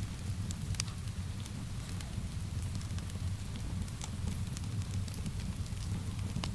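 Wood fire crackling in a fireplace, with scattered sharp pops and snaps over a steady low rumble, mixed with the even hiss of rain.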